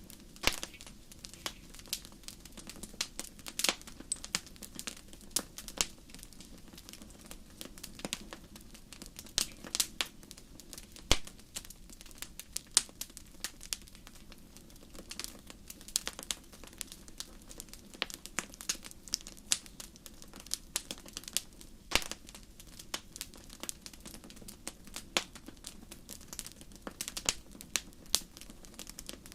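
Wood campfire crackling, with irregular sharp pops and snaps over a steady low background.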